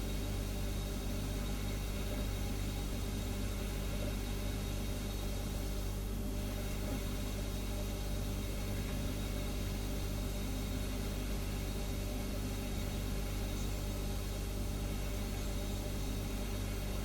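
Refrigerator humming steadily: a low, even hum made of several steady tones, over a light hiss.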